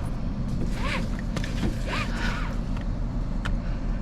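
Truck engine idling steadily, with a few short clicks and two brief rising-and-falling squeaks about one and two seconds in.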